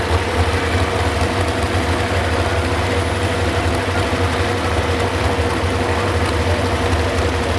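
Modified 4x4 pulling truck's engine idling steadily.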